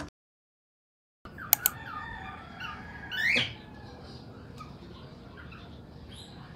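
About a second of silence, then outdoor ambience with small birds chirping, two sharp clicks, and a louder rising call about three seconds in.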